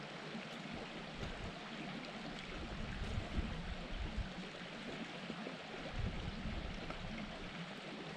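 Mountain stream flowing steadily over rocks, a continuous rushing of water, with a few brief low rumbles.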